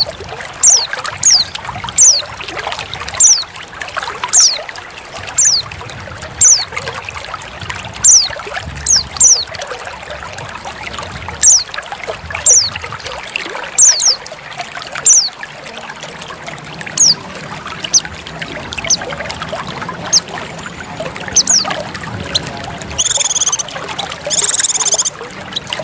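Trickling water under a female white-eye's calls: short, high notes that sweep downward, repeated every half second to a second or so. Near the end come two longer, buzzy notes.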